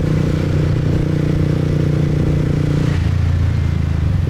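Motorcycle engine running steadily under way, its note dropping to a lower pitch about three seconds in as the revs fall.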